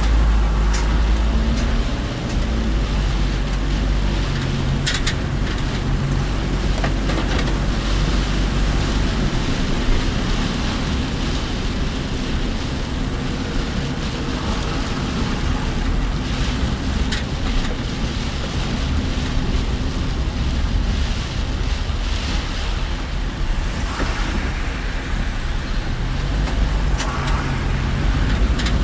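Car being driven through heavy typhoon rain, heard from inside the cabin: a steady low engine and road hum with tyre and rain noise from the wet road. A few short clicks stand out, about a second in and again around five and seven seconds in.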